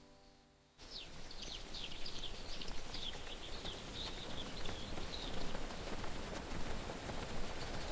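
Music fading out, then about a second in a steady rain-like hiss cuts in, with a flurry of quick, high bird chirps over it for the next few seconds.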